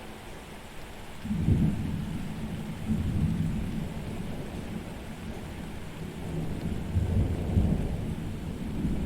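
Thunder rumbling over steady rain: a low rolling rumble starts about a second in and swells twice more, near the middle and again near the end.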